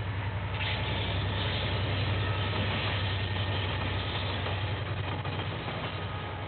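Diesel locomotive engine running with a steady low drone as a train passes, loudest about two seconds in and easing off after.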